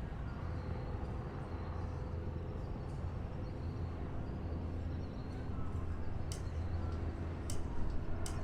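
Steady low rumble of harbour and city ambience, with a faint steady hum, and a few short sharp ticks in the last two seconds.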